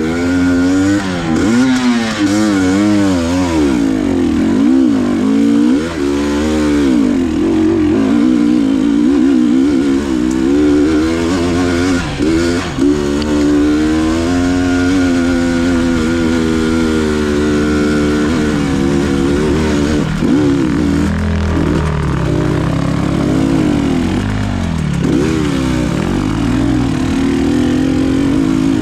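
Enduro motorcycle engine revving up and down over and over as the throttle is worked on rough ground, with no steady cruising note.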